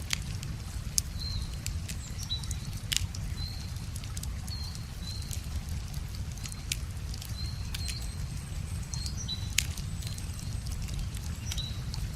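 Wood fire crackling, with scattered sharp pops and two louder snaps, over a steady low rumble. A small bird calls again and again with short high chirps.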